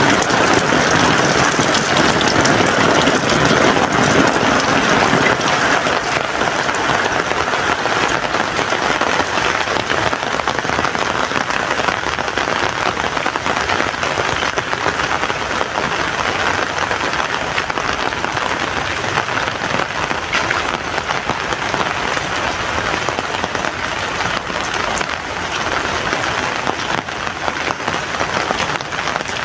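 Heavy rain falling steadily, a dense hiss of drops striking surfaces, slightly heavier in the first few seconds.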